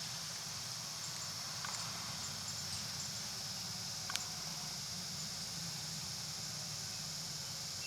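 Inside a running city bus: a steady low engine hum under a high hiss, with a single sharp click about four seconds in.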